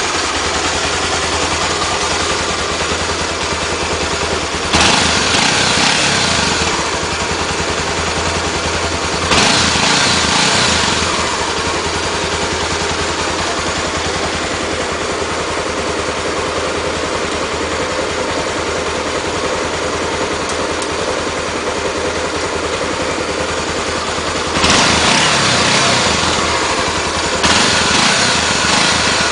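Honda XR 250 Tornado motorcycle engine idling, with the throttle blipped four times. Each blip jumps up suddenly and settles back to idle over a second or two.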